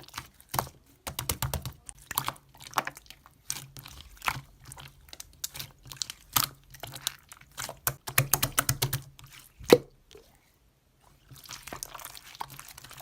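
Slime being squeezed and poked by hand: a rapid, uneven run of sticky clicks and small pops, with a short pause about ten seconds in, followed by a softer crackling hiss.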